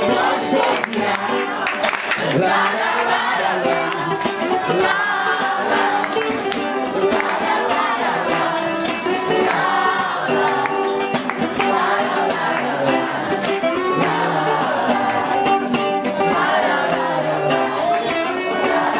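Upbeat gospel praise music with group singing and a shaking tambourine.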